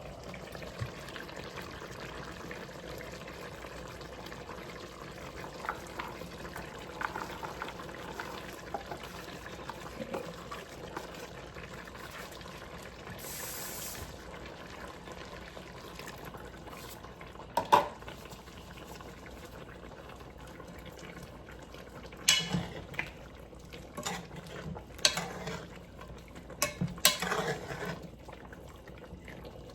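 A pot of sauce simmering on the stove with a steady bubbling hiss. A spoon knocks against the pot once a little past halfway, then several more times in quick succession near the end.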